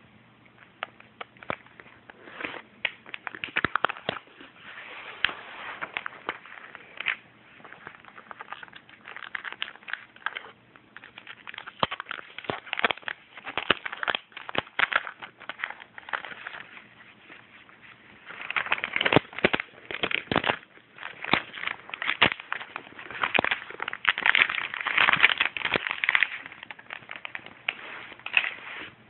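Packaging being handled and unwrapped during an unboxing: a long run of irregular sharp crackles and rustles, busier and louder in the last third.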